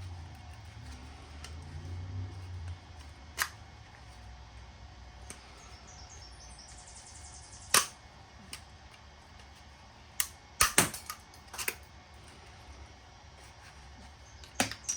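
Sharp metal clicks and knocks of hand tools and steel parts as a stubborn furnace burner fitting is worked loose for scrap. The knocks come irregularly, several in quick succession past the middle and another near the end.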